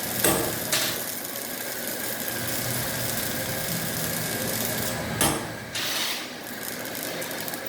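Robotic welding cell running: a steady mechanical hum and hiss, broken by short louder hissing bursts, two near the start and two about five to six seconds in.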